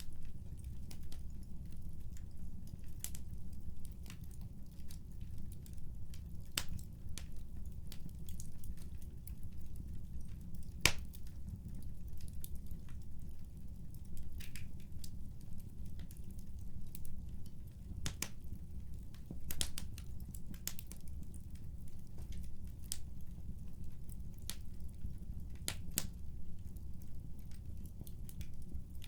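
Fireplace fire crackling: irregular sharp pops over a steady low background noise, with one louder pop about eleven seconds in.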